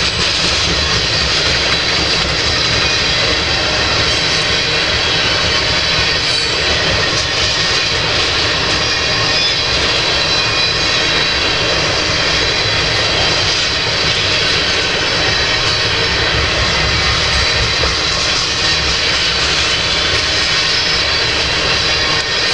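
Loaded freight train of tank cars rolling past at close range, a steady rumble of steel wheels on rail.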